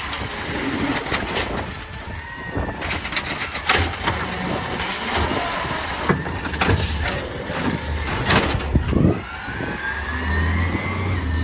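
Peterbilt 320 automated side-loader garbage truck working at the curb: engine running, with air-brake hiss and a series of metallic clanks and knocks from the lift arm and hopper. Near the end a squeal rises steadily in pitch.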